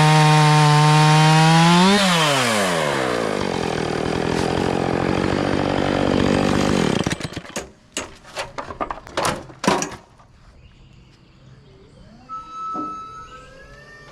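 Chainsaw running at high, steady revs, then let off the throttle about two seconds in. Its pitch falls as it winds down, and the engine sound ends about seven seconds in. A burst of sharp cracks and snaps follows over the next few seconds, then it goes quieter.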